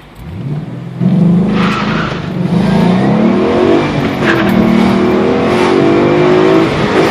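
2011 Ford Mustang GT's 5.0-litre V8 on its stock exhaust, accelerating hard from a standstill: the revs climb, drop at an upshift about two and a half seconds in, then climb again through the next gear.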